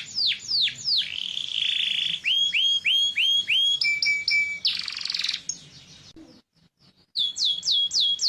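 Domestic canary singing: phrases of repeated syllables, first quick downward-sweeping whistles, then a trill and a run of short rising-and-falling notes. The song breaks off for about a second near six seconds in, then starts again with quick downward sweeps.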